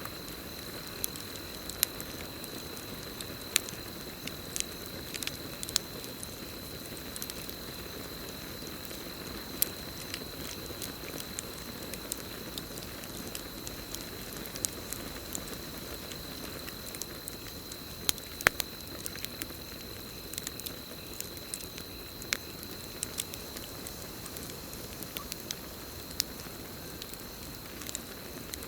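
Campfire crackling, with irregular sharp pops and snaps of burning wood, over a steady high cricket trill.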